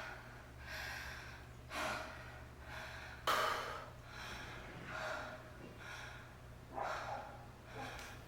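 A person breathing audibly, soft breaths in and out about one a second, over a low steady hum.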